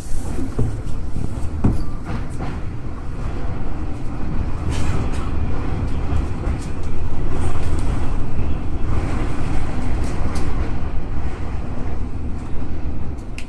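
Electric commuter train running on the rails, heard from the front of the train: a steady low rumble with scattered sharp clicks, swelling louder about seven seconds in.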